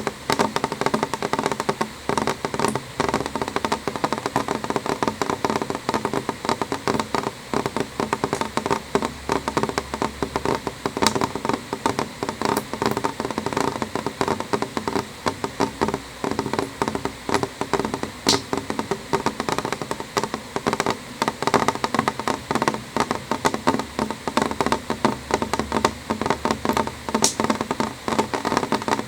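Rain on window glass: a dense, steady stream of small drop taps, with a few sharper single taps standing out now and then.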